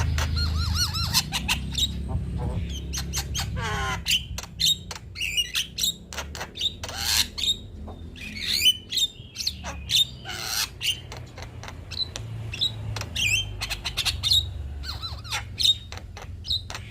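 Male Javan myna singing its chattering song: a rapid run of clicks, harsh squawks and short gliding whistles, over a low hum that fades after the first few seconds.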